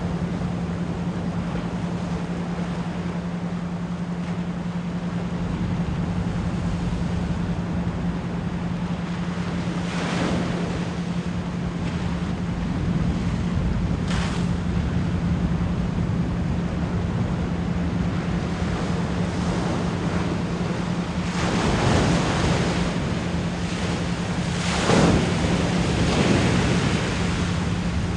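Ocean surf washing in a continuous hiss, with waves swelling and breaking louder several times in the second half. Under it runs a steady low 174 Hz pure tone, pulsed as an isochronic entrainment tone.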